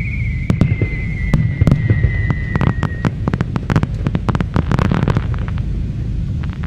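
Fireworks going off: many sharp bangs and crackles over a steady low rumble, with a whistling firework's tone sliding slowly downward and ending about three seconds in.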